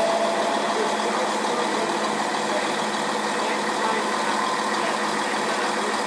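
A train standing at the platform running with a steady, unchanging hum and hiss.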